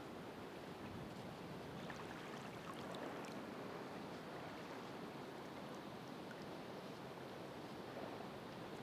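Ocean surf washing in: a steady, soft hiss of moving water that swells a little about three seconds in, with faint scattered crackles of foam.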